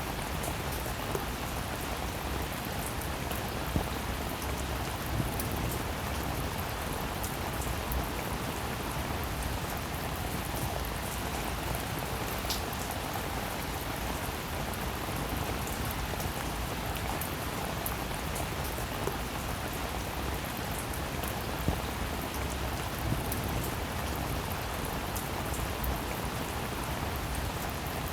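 Steady heavy rain falling on a hard surface, a dense even hiss with scattered louder drops ticking now and then.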